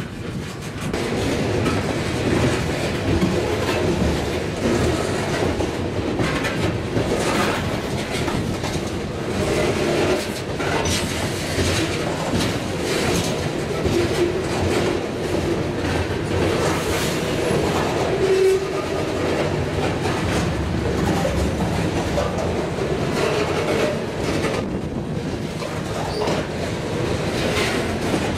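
A freight train of covered hopper cars rolling past close by, with a steady rumble and the wheels clicking and clattering over the rails.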